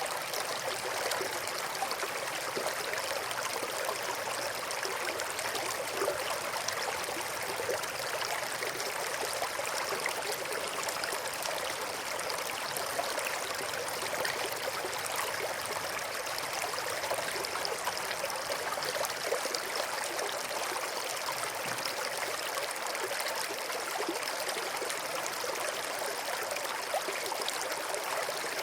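River water flowing and babbling over rocks, a steady rushing with small splashing flickers.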